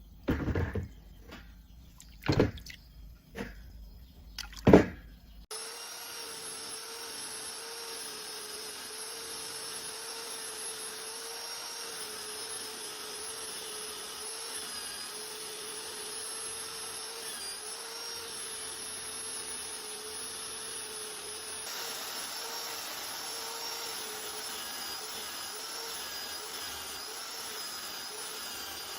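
A few sharp knocks, then about five seconds in an electric power tool starts and runs steadily with a constant whine.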